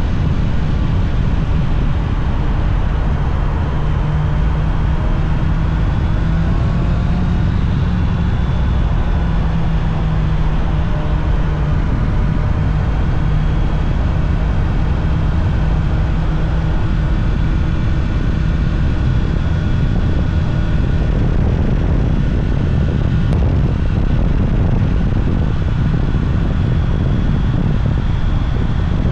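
Honda CBR650R's inline-four engine running at steady riding speed, its note drifting gently up and down, under heavy wind rumble on the microphone.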